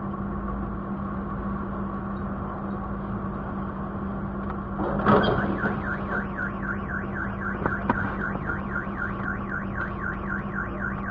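Steady vehicle hum. About five seconds in there is a loud bang, and then a car alarm starts warbling rapidly, sweeping up and down about three times a second.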